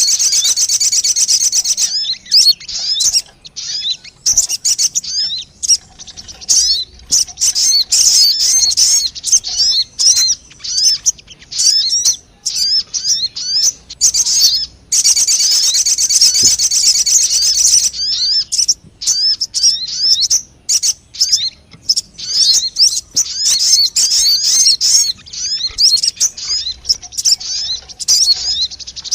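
Sogon bird lure call: a fast, dense high-pitched trill that breaks into quick separate chirps, the trill returning about halfway through.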